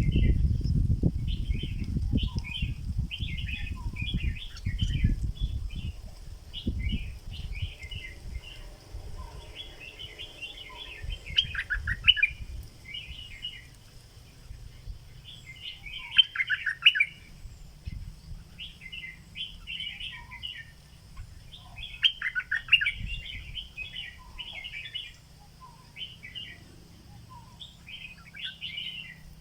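Stripe-throated bulbul, a caged decoy bird, singing short bubbly phrases again and again with brief pauses between them. A low rumble runs under the song for the first several seconds.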